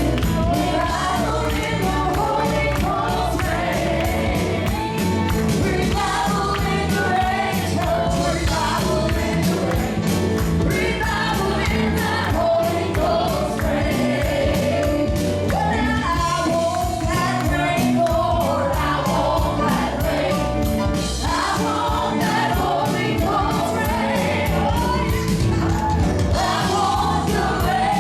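Congregational gospel singing with a choir of voices over a live band with a steady beat.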